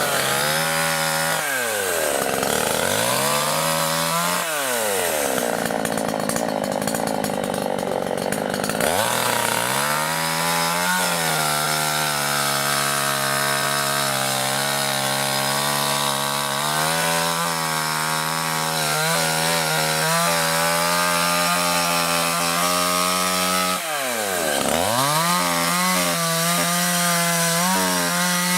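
Two-stroke chainsaw cutting into coarse-grained khoi wood: the engine's pitch drops sharply and climbs back a few times as it bogs and revs up, and between those dips it runs steadily at high revs under load in the cut.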